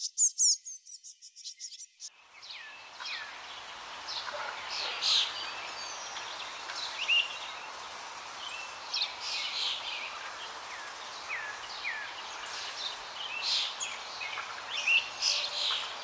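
Small birds calling. A rapid, high twittering chatter fills about the first two seconds and cuts off. Then come scattered short chirps and brief falling whistles over a steady outdoor background hiss.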